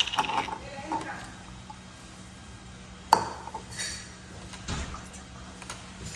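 Plastic toy coffee-set pieces clattering and clinking as pretend coffee is made: a few separate knocks, the sharpest about three seconds in.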